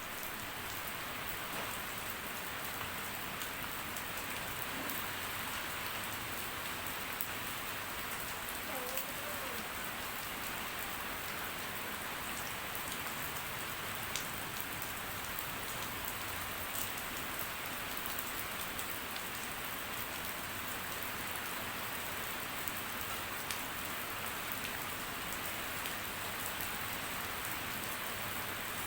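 Steady rain falling, with the patter of individual drops striking surfaces throughout.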